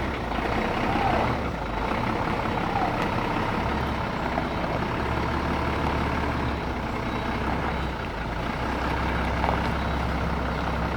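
Heavy diesel truck engine running steadily at low revs, a deep continuous drone.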